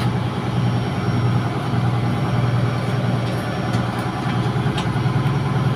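Steady, loud drone of running diesel machinery in a ship's engine room, with a few faint metallic clicks from tools being handled.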